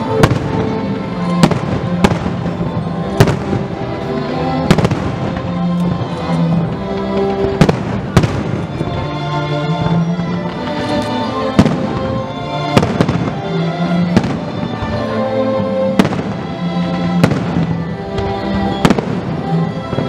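Aerial firework shells bursting in a string of sharp bangs, roughly one a second, with music playing underneath throughout.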